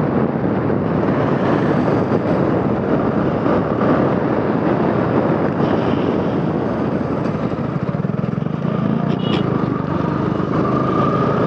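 Yamaha R15 V4's single-cylinder engine on the move as the bike slows, under a dense rush of riding wind noise. The engine note starts to climb again in the last second.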